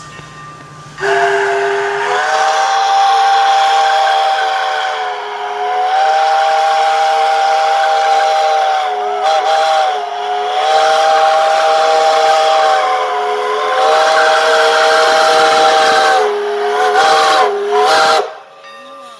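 Sierra Railway No. 28 steam locomotive blowing its whistle, a chord of several notes over steam hiss: a string of long blasts, then several short toots near the end.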